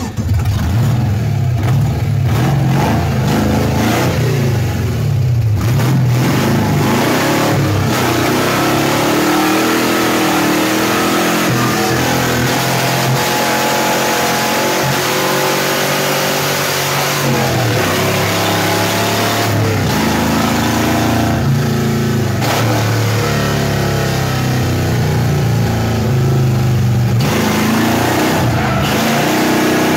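The LQ4 6.0-litre V8 of a drift-built 1993 Mazda RX-7 FD, heard from inside the caged cabin, revving hard and falling back again and again in pitch through a drift run.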